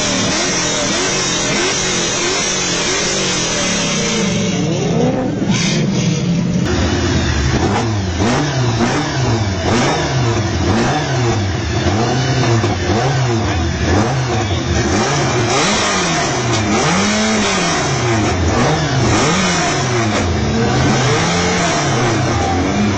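Supercar engines revving, pitch rising and falling again and again, about once a second, with several revs overlapping. For the first seven seconds or so the engine note is steadier.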